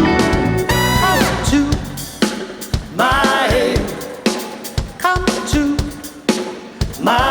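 Live band music with a drum kit and held, wavering lead melody lines over it. The bass drops away about two seconds in and comes back near the end.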